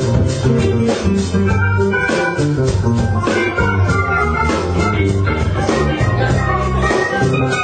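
A band playing, with a sustained organ out front over bass and steady drum hits.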